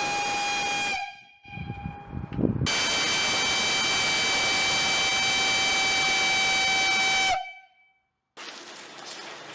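Steam whistle blowing over a hiss: a first blast stops about a second in, then after a short break with some low rumble a second long blast of about five seconds that cuts off sharply. A quieter engine hum comes in near the end.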